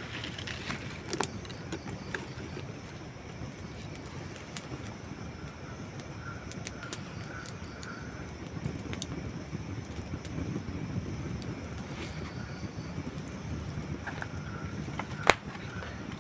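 Wood campfire burning, with a steady low rush of flames and scattered sharp crackles and pops from the burning logs; the loudest pop comes near the end.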